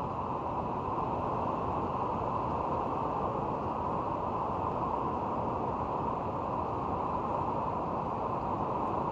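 Heavy rain falling in a steady downpour, an even hiss with no letup.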